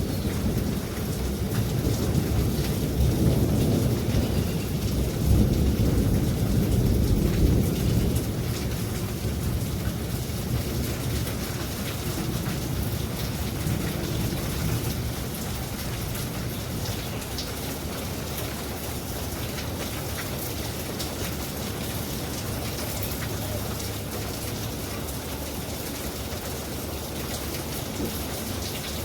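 Thunderstorm: steady rain with many fine drop ticks, and a low rumble of thunder in the first several seconds that dies away, leaving the rain alone.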